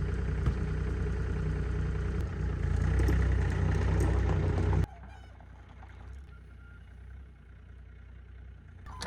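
An engine or motor running steadily with a deep hum, stopping abruptly about five seconds in. After it, quiet outdoor background with a few faint high chirps.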